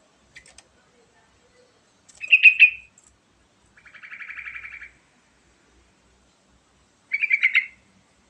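Sooty-headed bulbul (trucukan) singing: two short loud phrases of quick bubbling notes about five seconds apart, with a softer, fast, even trill between them.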